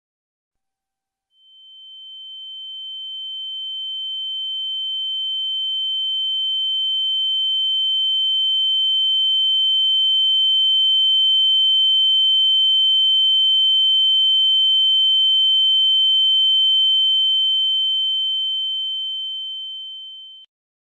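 A single steady high-pitched electronic tone that swells in slowly over several seconds, holds level, then fades and cuts off just before the end.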